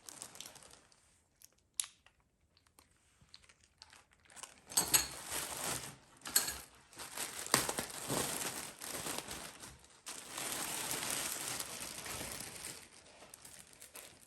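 Packaging crinkling and rustling as it is handled, with a sharp click early on and a dense stretch of crinkling through the middle that fades toward the end.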